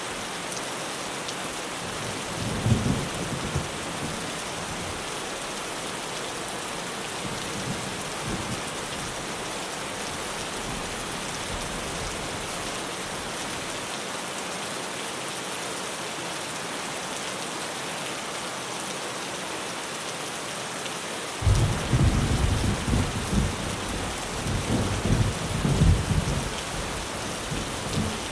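Steady heavy rain drumming on a tin roof. A short low rumble of thunder comes about three seconds in. A longer, louder rolling peal of thunder starts about three quarters of the way through and runs on to the end.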